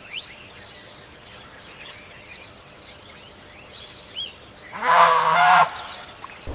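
Forest ambience with faint short rising chirps from birds. About five seconds in comes one loud bird call lasting under a second.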